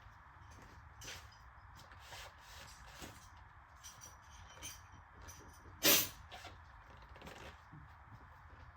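Hand tools being worked on the car: scattered light clicks and knocks, with one sharp, loud knock about six seconds in, over a steady low hum.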